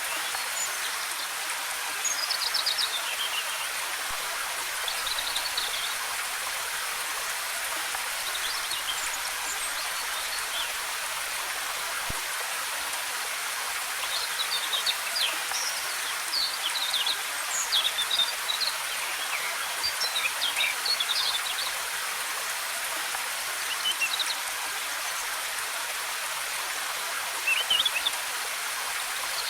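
Steady rush of a waterfall, with small songbirds chirping and twittering in short phrases over it, most often about halfway through.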